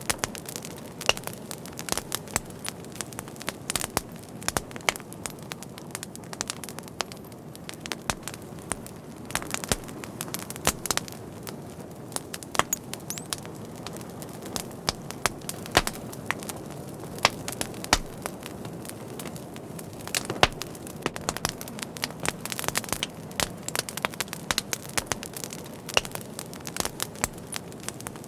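Wood fire crackling: frequent irregular sharp pops and snaps over a steady low hiss of burning.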